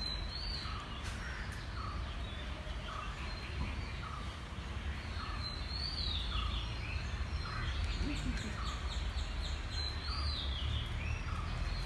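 Birds chirping and calling: many short chirps, and a higher falling call that comes back about every five seconds, over a steady low rumble.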